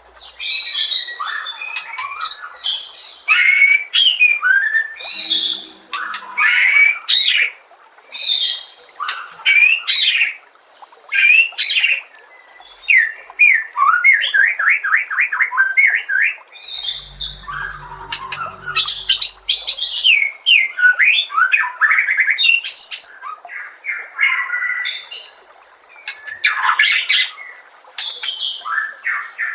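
White-rumped shama (murai batu) singing a loud, varied song of sweeping whistles, harsh calls and rapid trills in phrases broken by short pauses.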